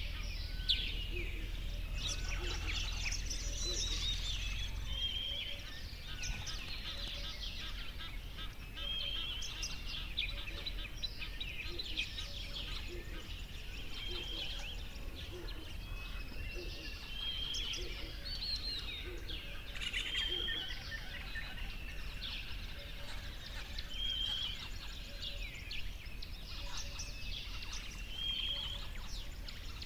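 Several birds chirping and singing, with short repeated notes overlapping all through, over a low rumble that drops away about five seconds in.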